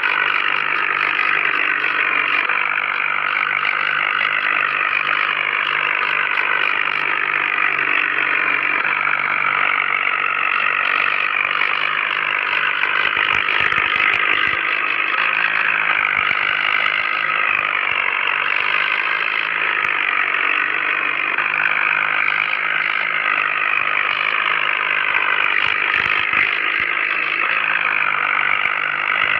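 Tractor engine running steadily without a break.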